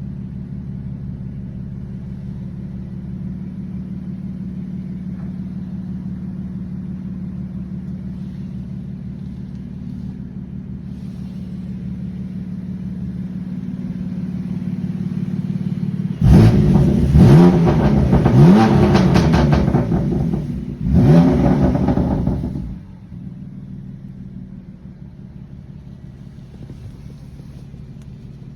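BMW M3 F80's twin-turbo inline-six running at cold-start idle, slowly getting louder. About halfway through it is revved hard several times over about six seconds. It then drops back abruptly to a quieter, steady idle.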